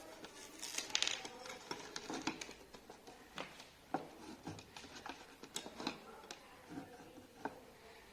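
Irregular light clicks and knocks, with a brief rustling scrape about a second in.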